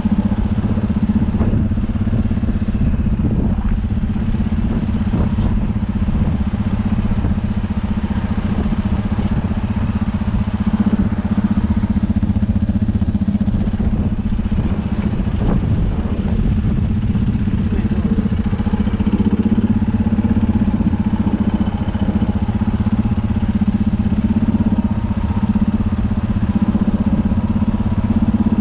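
Universal 650 tractor's four-cylinder diesel engine running steadily, with a few faint knocks.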